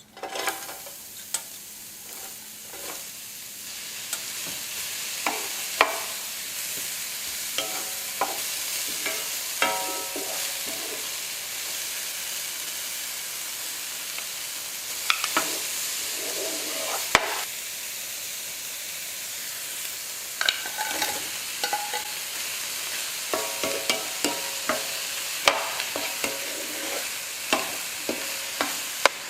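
Food sizzling in a hot pan while a utensil stirs it, with frequent sharp clicks and ringing clinks of the utensil against the pan over the steady sizzle.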